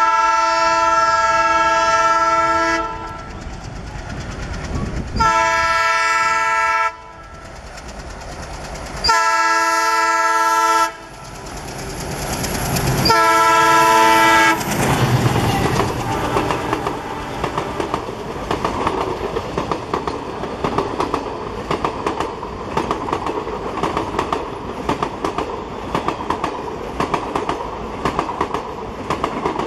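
Diesel locomotive's horn sounded in four blasts, the first the longest, as the train approaches. About 15 seconds in, the locomotive's engine rumbles past and the passenger coaches follow with a rapid, steady clickety-clack of wheels over the rail joints.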